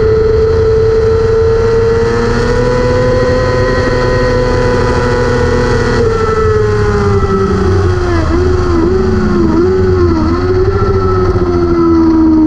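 600cc race motorcycle engine running hard at high revs, its pitch held high and rising slightly, then dropping from about halfway with a series of brief dips as the revs come down.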